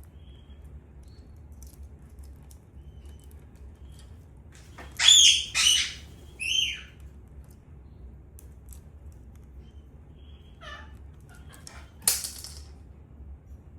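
Indian ringneck parakeet giving three loud, shrill calls about five seconds in, then softer chatter around eleven seconds, followed by a short, sharp noisy burst near the end, over a low steady hum.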